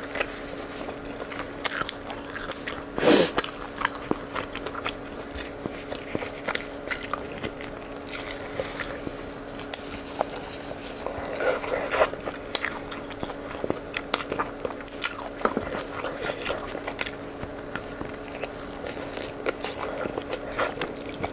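Close-miked chewing and biting of spicy braised rabbit leg meat, with many irregular wet mouth clicks and smacks. One louder burst comes about three seconds in, over a faint steady hum.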